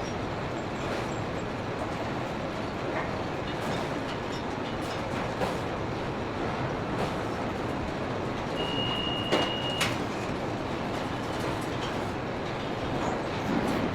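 Steady mechanical noise of industrial machinery, with scattered knocks and a short high beep about nine seconds in.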